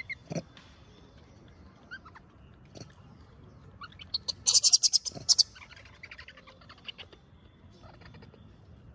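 High-pitched animal chirps and squeaks, with a loud rapid chattering run of about ten calls a second around the middle.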